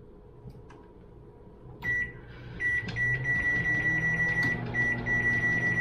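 Microwave oven switched on: a click about two seconds in, then the oven running with a low hum and a steady high-pitched whine.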